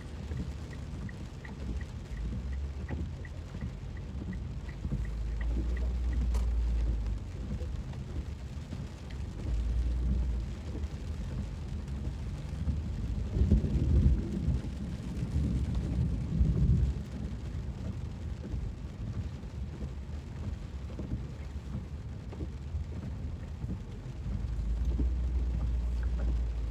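Heavy monsoon rain on a moving car: a steady hiss of rain with a low rumble that swells and fades several times, loudest about halfway through. A light ticking, two or three ticks a second, runs through the first six seconds.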